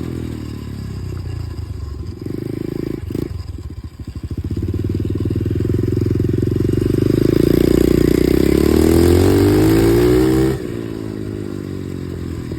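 Dirt bike engine under a rider's throttle: the revs drop as the throttle closes, run low and uneven for a few seconds, then climb steadily from about four seconds in, hold high, and fall away sharply as the throttle is shut near the end.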